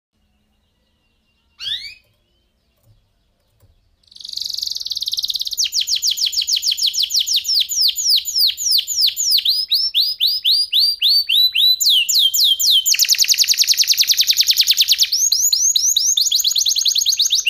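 Domestic canary singing: a short rising call, then about 4 s in a long unbroken song of fast rolling trills, rapid runs of high down-slurred notes that switch to a new phrase every few seconds.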